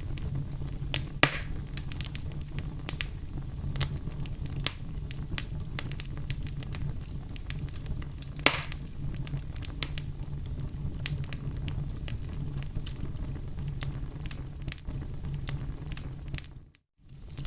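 Wood fire crackling in a fireplace: a steady low rumble of flames under frequent small sharp pops, with two louder pops about a second in and past the middle. The sound drops out for a moment shortly before the end.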